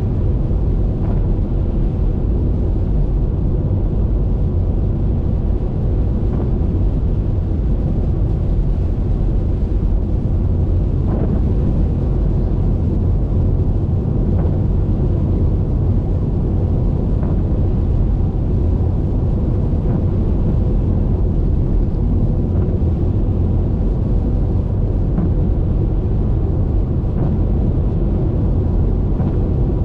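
Steady low rumble of a car driving on a wet highway, tyre and wind noise, with a few faint scattered ticks.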